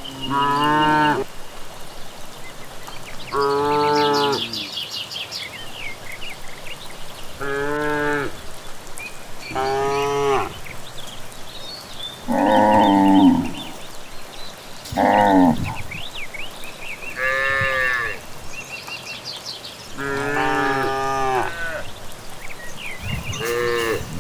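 Cattle mooing, about nine long moos one after another at varying pitches, some lower and some higher. Birds chirp and trill faintly behind them.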